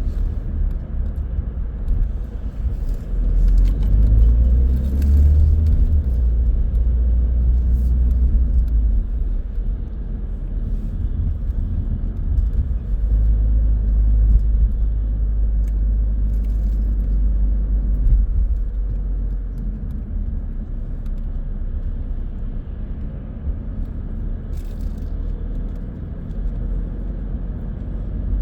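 A car driving on the road: a steady low rumble of engine and tyres, getting a little louder about four seconds in, with a few faint clicks.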